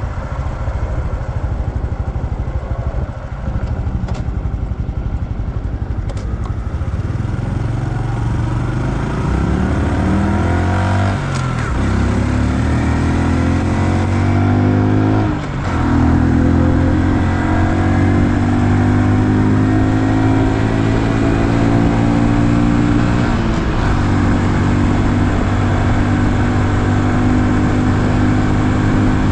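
2020 Honda Super Cub's single-cylinder engine under way, revving up in pitch, dropping abruptly twice as it shifts up through the gears, then holding a steady cruising note for the rest of the stretch.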